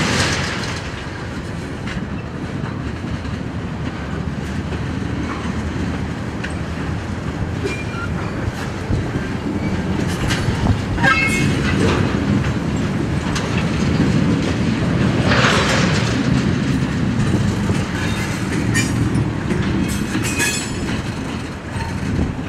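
Railroad tank cars rolling slowly past: a steady low rumble of steel wheels on rail with clicking over the joints and a few brief wheel squeals. A sharp bang is heard right at the start.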